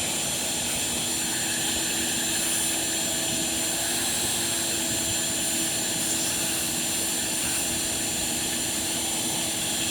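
A motor-driven machine running steadily with a thin high whine, unchanging throughout.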